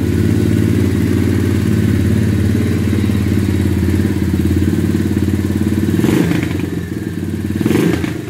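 Apollo DB007 125cc dirt bike's single-cylinder four-stroke engine running steadily, with two short, louder noisy bursts about six and eight seconds in.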